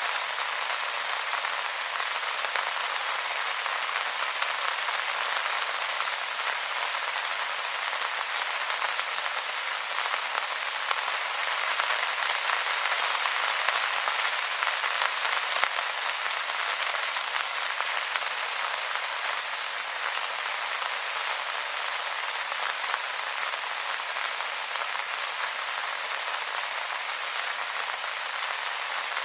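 Steady rain falling on wet leaves: a dense, even patter of raindrops.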